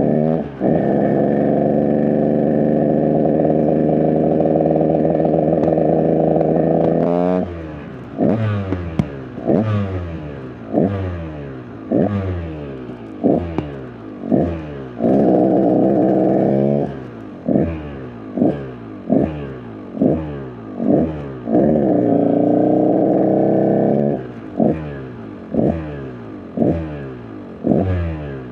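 KTM EXC 125 single-cylinder two-stroke dirt bike engine on the ride, held at a steady high rev for several seconds, then blipped again and again, about once a second, each rev rising sharply and dropping away. It goes back to steady throttle twice, briefly, before more quick blips. The rider says the bike isn't running great.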